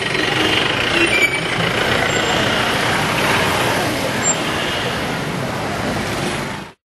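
Busy street noise of a crowd and vehicles, a steady dense din that cuts off abruptly near the end.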